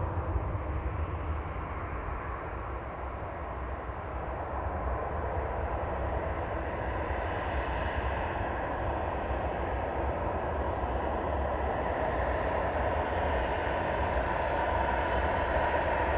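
Jet airliner engines running at the airport, a steady noise that grows gradually louder over the last several seconds, with strong wind rumbling on the microphone.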